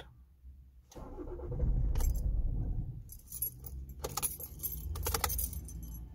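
A 2006 Toyota Avensis 2.0 D-4D four-cylinder diesel turning over on the starter as the key is turned, with keys jangling on the ignition key. The rumble starts about a second in and is loudest for the next couple of seconds. It is a hard cold start that persists despite a new battery, new glow plugs and a new fuel filter.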